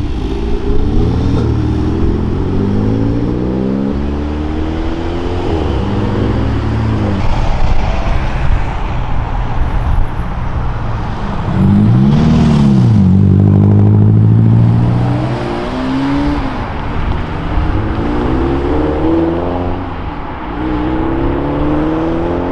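Modified cars accelerating away one after another, their engine notes climbing and dropping as they change gear. About twelve seconds in, one car revs hard and passes loudest, its note rising and then falling.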